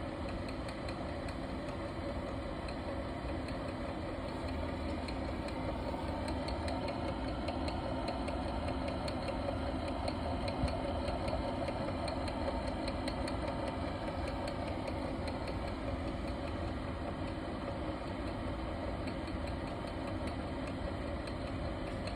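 Steady mechanical hum and whir from running bench test equipment, without a break. The owner puts the noise down to the frequency counter that is reading the output.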